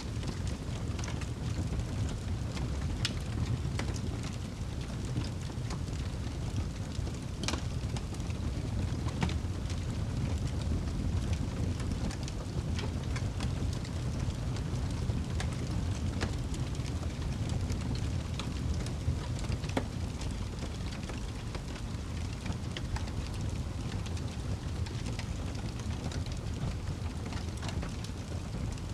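Fire burning in a fireplace: a steady low rumble with scattered sharp crackles and pops of burning wood.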